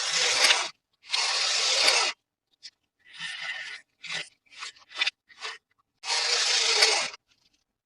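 Toy packaging being torn open by hand: three long tearing strokes, with a run of short rips and crinkles in between.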